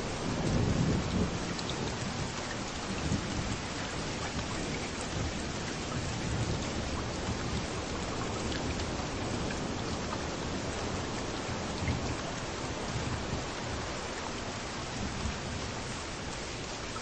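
Steady rain falling, with the low rumble of waves breaking on the beach swelling up now and then, strongest about a second in.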